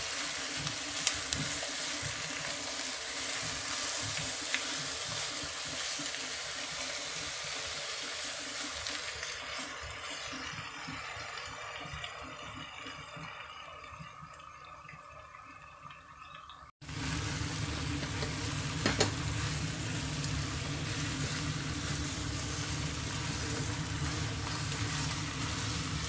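Chicken pieces with ginger and garlic sizzling as they fry over high heat in a nonstick pot, stirred and scraped now and then with a plastic spatula. The sizzle fades away over several seconds, then comes back abruptly at full level after a cut.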